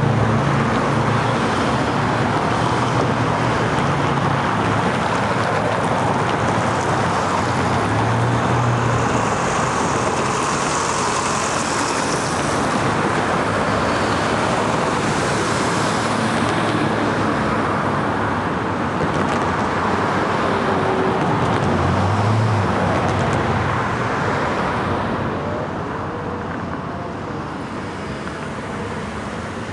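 Steady road traffic: cars passing, with tyre and engine noise, easing off slightly near the end.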